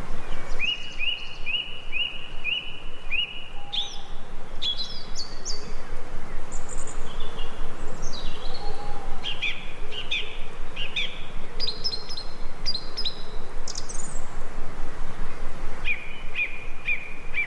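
Wild birds calling and singing in short, sharp whistled notes. A run of rising notes repeats about twice a second, varied higher whistles follow, and the repeated rising notes return near the end, over a steady background hiss.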